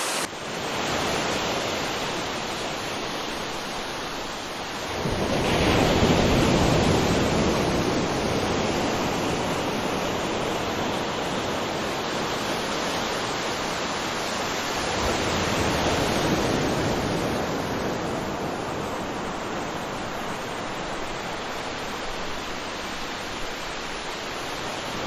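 Waterfall: a steady rush of falling water, swelling louder about five seconds in and again around sixteen seconds.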